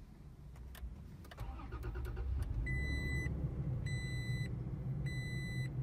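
A Toyota Tacoma pickup's engine is started with the push button. The starter cranks for about a second, the engine catches and settles into a steady idle, and a dashboard warning chime then beeps three times at an even pace.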